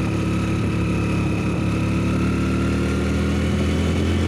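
Small commuter motorcycle's single-cylinder engine running steadily while being ridden, its pitch easing down slightly.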